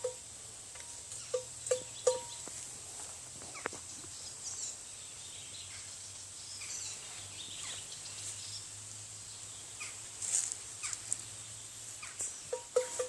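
Livestock bells clanking now and then, a few strikes in the first two seconds and again near the end, with scattered bird calls in between over a faint low hum.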